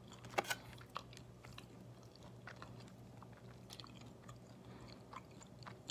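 Soft, close chewing of a chicken wing: faint wet clicks and crunches, a little stronger about half a second in.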